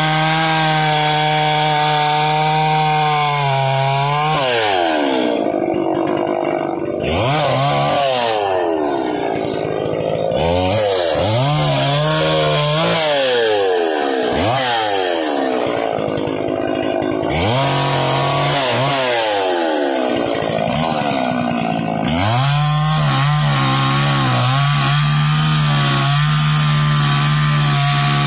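Small two-stroke top-handle chainsaw running at high revs, its pitch falling and climbing again several times in the middle before it holds steady and high near the end.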